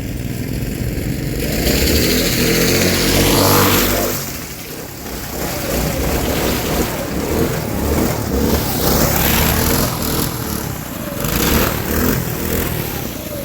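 A twin-engine go-kart revving up and easing off under hard driving, its engine note climbing to a peak about three seconds in and dipping briefly before picking up again. Scraping bursts from its plastic wheels sliding on the wet ground come through along with it.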